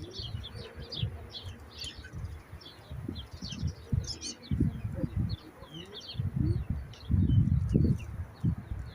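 Small birds chirping in quick, busy twitters throughout. An irregular low rumble or thudding runs underneath and grows loudest near the end.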